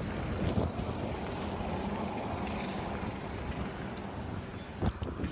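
Wind buffeting the microphone on a moving bicycle, with steady road noise and a couple of short knocks from the bike.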